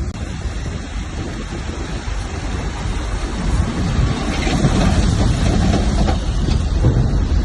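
Heavy diesel earthmoving machinery running steadily, growing louder and heavier about halfway through as it works under load.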